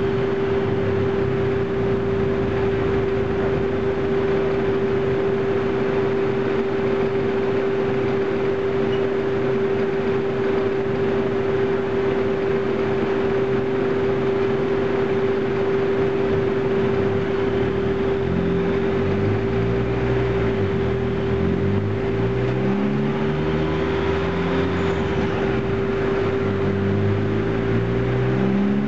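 Turbocharged Vauxhall Astra engine running on a rolling-road dyno under a loud, steady hum from the dyno equipment. About two-thirds of the way through, the engine note starts rising and falling several times as it is revved.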